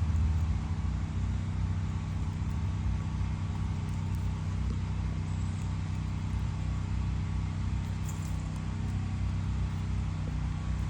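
Generator engine running steadily, a constant low drone.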